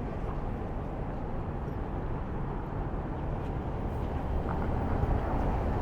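Steady rumble of city street traffic, a continuous low noise with no distinct events standing out.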